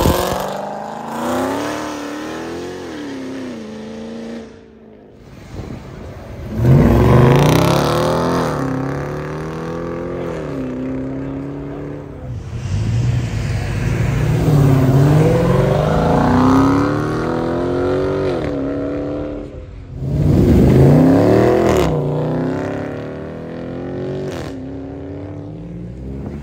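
Mopar car engines revving and accelerating hard in a string of short clips. The engine note climbs and drops again and again, with the loudest surges about six and a half and twenty seconds in.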